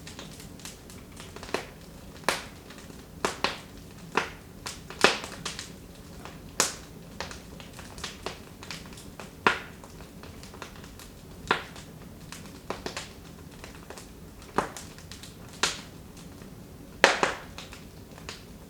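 Wood fire crackling in a fireplace: irregular sharp pops and snaps, roughly one a second, a few of them much louder than the rest.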